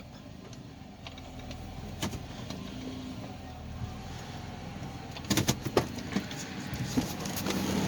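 Inside a 2005 Nissan Maxima under way, a steady low engine and road rumble, with a few clicks and knocks about five and a half seconds in.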